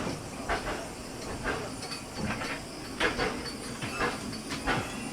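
Narrow-gauge steam locomotive hissing steam, with a run of sharp strokes about two or three a second.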